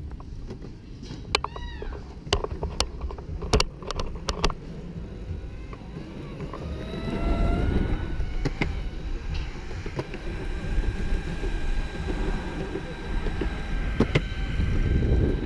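Evolve Bamboo electric skateboard: sharp clicks and knocks of kick-pushing in the first few seconds. Then its brushless motor whines, rising in pitch as the board speeds up and holding steady, over the low rumble of the wheels rolling.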